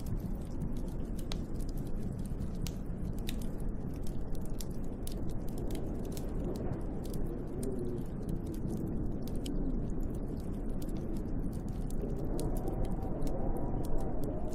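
Snowstorm wind blowing steadily, with a low howl that wavers up and down in pitch, stronger in the second half. Many small sharp crackling ticks run through it.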